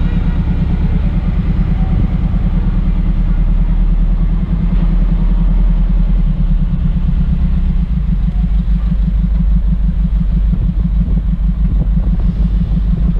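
A truck engine running steadily, a continuous low rumble.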